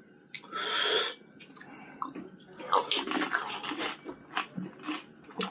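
Someone eating pani puri: a loud slurp about half a second in, then chewing with many irregular crunchy crackles from the puri shells.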